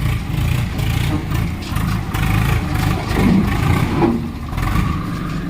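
Swaraj 855 tractor's diesel engine running loud and heavy, its rumble rising and falling, as the stuck tractor is worked to get free.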